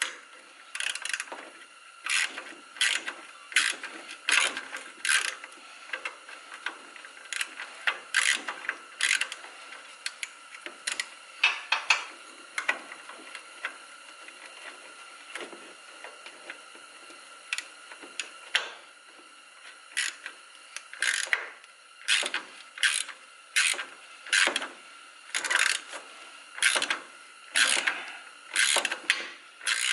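Ratcheting wrench clicking in short, irregular strokes as it backs out a bracket bolt, with a sparser stretch about halfway through.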